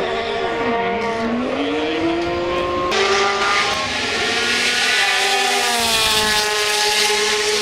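IndyCar race car engine revving hard: the pitch drops sharply just after the start, as on braking and downshifting, then climbs steadily. From about three seconds in it turns louder and harsher, then keeps rising and falling in pitch.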